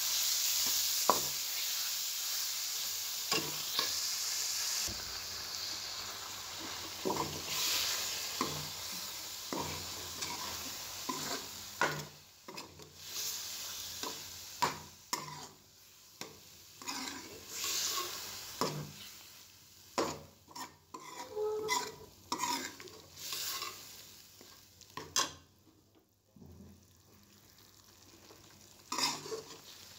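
Chicken pieces in masala sizzling in an aluminium pot while a steel spoon stirs them, scraping and clicking against the pot. The sizzle is strongest over the first dozen seconds and fades, leaving mostly scattered spoon clicks near the end.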